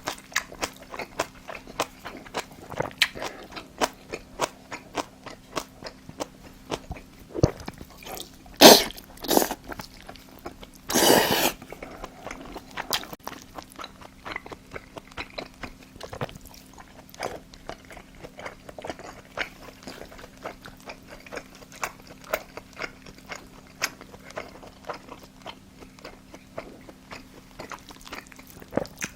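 Close-miked chewing and mouth noises from eating spicy braised monkfish, a steady run of small wet clicks and smacks. A couple of louder sharp sounds come about nine seconds in, and a louder noisy rush lasting about a second follows soon after.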